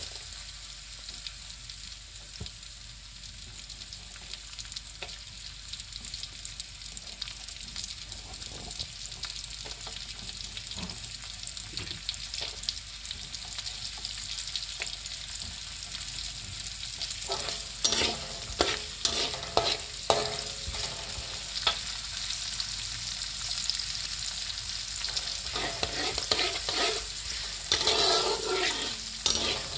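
Sliced shallots and garlic sizzling in hot oil in a wok. In the last third a metal spatula scrapes and clacks against the wok in repeated stirring strokes.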